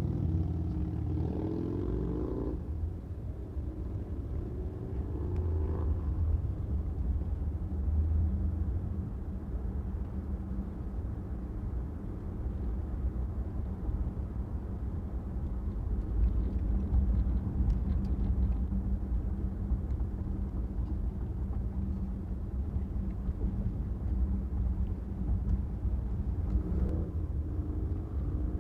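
Car driving on city streets: a steady low rumble of road and engine, with an engine note rising as it speeds up in the first couple of seconds and again briefly about six seconds in and near the end.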